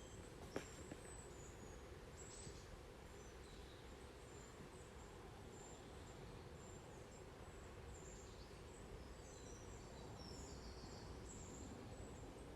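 Near-silent countryside ambience: a steady low hiss with faint, scattered high-pitched bird chirps, and a single sharp click about half a second in.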